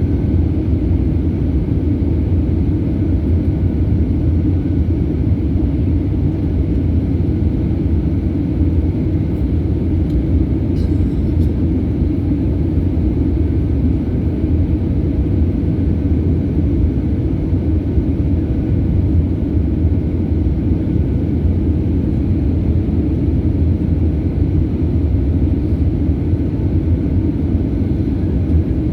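Airliner noise during landing: a steady, even low rumble without breaks.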